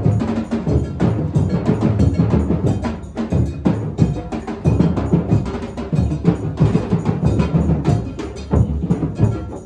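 Live percussion music: drums and other struck instruments playing a busy rhythm.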